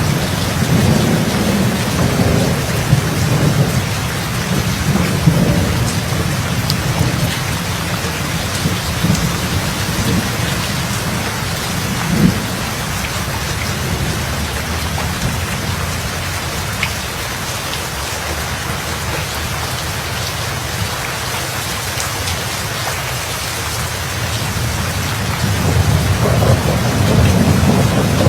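Steady heavy rain falling, with thunder rumbling low: the rumble is strong in the first several seconds, dies away through the middle, and rolls in again near the end.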